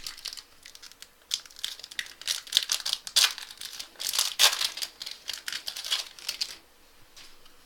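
Wrapper of a 2014 Topps Prime football card pack being torn open and crinkled: a run of sharp crackles that dies away near the end.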